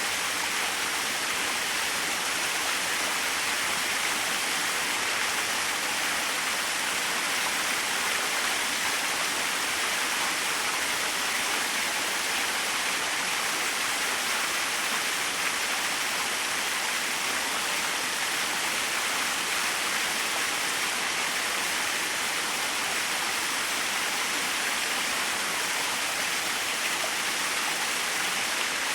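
Small waterfall splashing steadily, an even rushing hiss of falling water.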